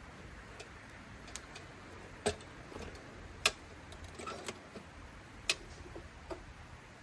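A few irregular sharp clicks and snaps over a faint steady hiss, three of them louder than the rest.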